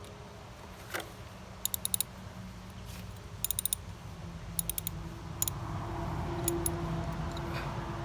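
Hand work with metal tools on a spider mower: several short runs of quick, sharp clicks, with a low steady hum growing louder in the second half.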